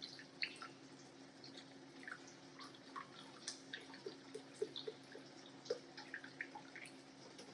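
Faint scattered pops and drips of a garlic-butter and chicken-broth sauce simmering in a pan, over a steady low hum.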